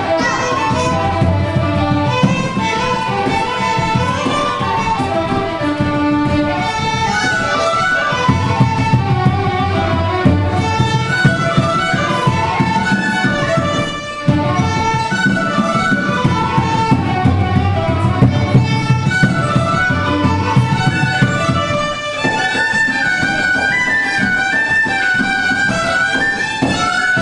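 Fiddle playing a lively Irish jig in quick, even runs of notes over a low accompaniment, with brief breaks in the phrasing about halfway through and again later.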